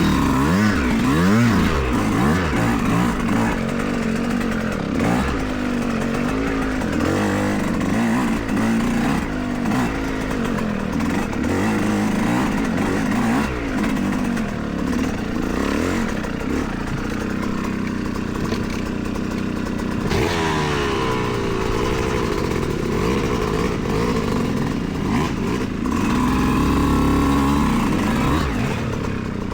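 Yamaha YZ125X 125cc two-stroke single-cylinder dirt bike engine revving up and down over and over while being ridden on a trail.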